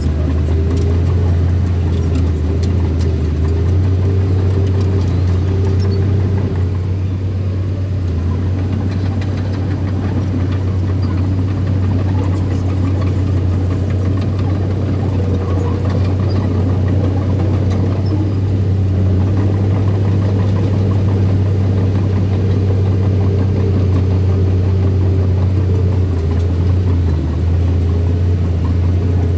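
An engine running steadily with a strong low hum, its pitch shifting a little at times as if under changing load.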